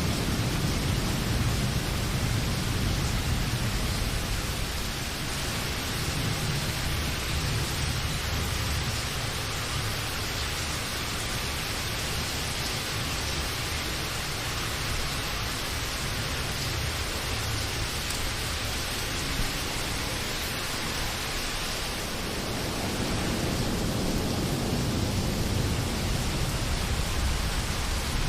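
Steady rain falling, an even hiss, with a low rumble underneath that fades after the first few seconds and swells again near the end.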